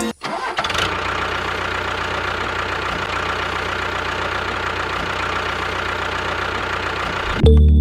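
Small engine running steadily at idle, with an even, unchanging note and a low hum underneath.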